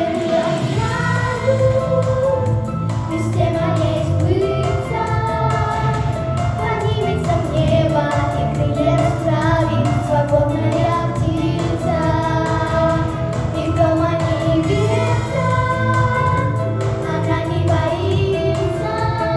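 Two girls singing a pop song as a duet over a backing track with a steady beat and bass.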